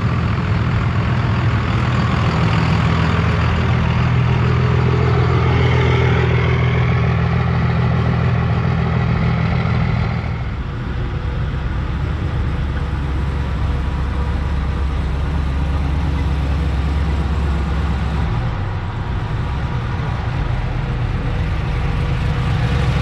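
Truck engine running steadily near idle, with a deep low hum. About ten seconds in the hum drops lower in pitch.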